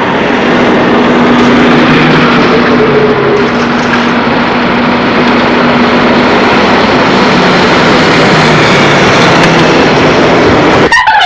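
Car engine running steadily: a loud, even rushing noise with a low hum beneath it.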